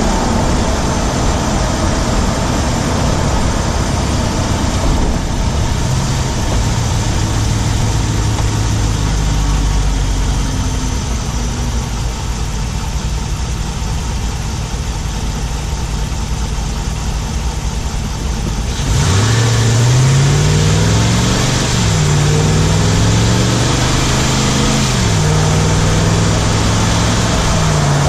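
A 2017 Ram 1500's Hemi V8 heard from inside its engine bay while driving, under steady road and air noise. Engine speed eases down at first; about two-thirds in it picks up and climbs in pitch, dropping back twice as the transmission upshifts, then holds steady. The owner is recording a ticking from the driver's side that he wonders is the 'Hemi tick' or something else.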